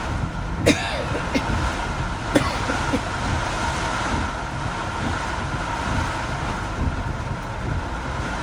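Heavy rain with vehicle road noise: a steady rushing wash over a low rumble. Two sharp knocks come under a second in and about two and a half seconds in.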